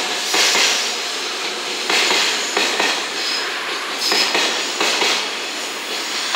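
Container wagons of a freight train rolling slowly through curved station-yard points, their wheels clattering over the switch and crossing joints in a loud surge every second or two. A brief high wheel squeal sounds twice near the middle.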